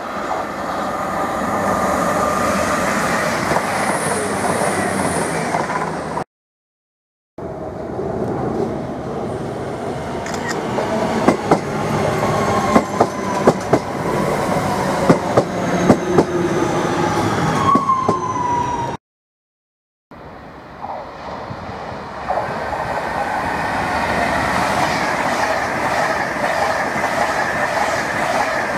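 Electric passenger trains running through a station. A London Midland Class 350 unit passes close, its wheels clacking sharply over rail joints, with a brief squeal near the end. After a short break of silence, a Virgin Pendolino passes with a steady rush. The sound is cut off twice by edits.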